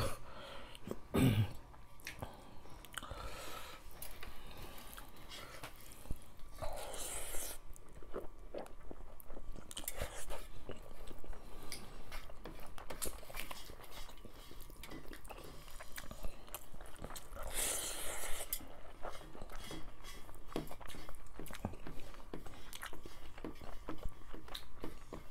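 Close-up eating sounds from two people eating rice and fish soup by hand: chewing and wet mouth noises with many small clicks. There are two short hissing noises, about seven and eighteen seconds in.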